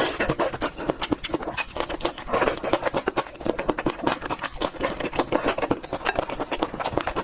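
Close-miked chewing and mouth smacking: a quick, irregular run of wet clicks and crunches as a mouthful of food is eaten.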